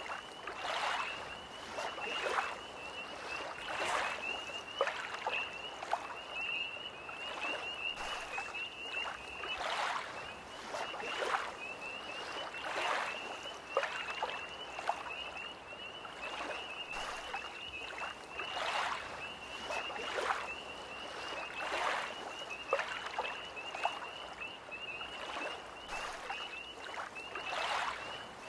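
Small lake waves lapping in uneven splashes every second or two, over a tree frog's steady, high, fast-pulsing trill that runs on without pause.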